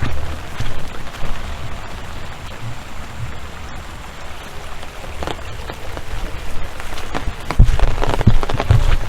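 Rain falling and pattering, with many small drop ticks. From about three-quarters of the way in, heavy low rumbling gusts come in on top.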